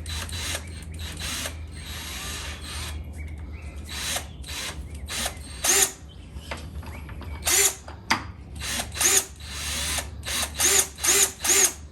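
A drill spinning an oil pump priming tool down the distributor hole of a Pontiac V8 in a series of short bursts, starting about halfway through and coming faster near the end. The tool has not yet engaged the oil pump drive.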